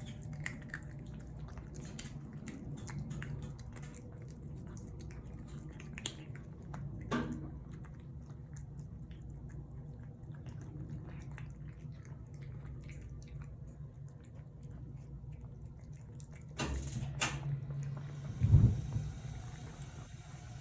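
Cats eating wet food from a plate: small wet clicks and chewing over a steady low hum, with a brief loud rustle and a heavy thump near the end.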